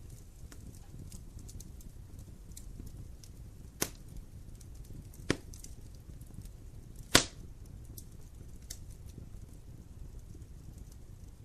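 Wood fire burning in a fireplace: a steady low rumble with light crackling, and three sharp pops of the logs, the loudest near the middle.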